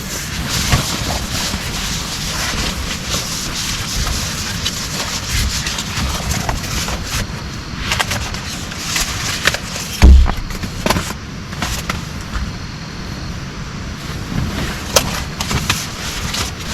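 Steady heavy rain with scattered sharp taps and knocks, and one loud low thump about ten seconds in.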